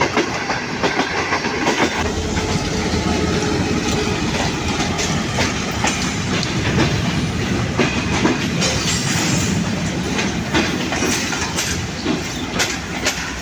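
Moving passenger train running along the track: a steady rumble with the clickety-clack of the coach wheels over the rail joints, scattered sharp clicks through it.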